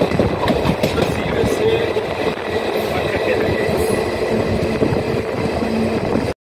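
Passenger train running along the track, heard from an open door or window of a coach: the steady rumble and clatter of wheels on the rails and the coach rattling, with a faint hum. It cuts off suddenly just before the end.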